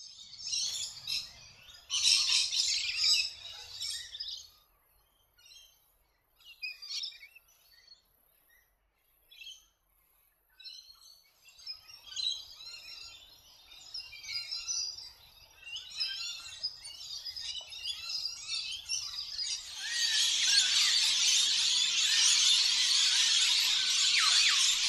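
Rainbow lorikeets calling: shrill chattering calls in short bursts with quiet gaps, swelling near the end into a dense, continuous chatter of many birds.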